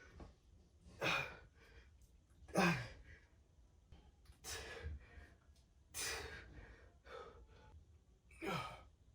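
A man breathing hard through an exercise set: five forceful exhales, one every one and a half to two and a half seconds, with fainter breaths in between.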